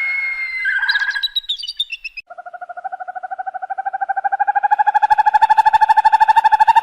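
Bird calls: about two seconds of chirping song, then after a brief gap a long, rapid pulsing trill that slowly rises in pitch and grows louder.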